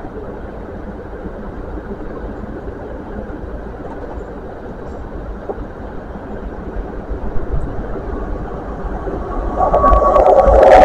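Train approaching along the line: a rumble grows louder over the last few seconds, rising sharply about two seconds before the end, with a brief steady whine and a few clicks as it nears. The train is a Great Western Railway passenger train.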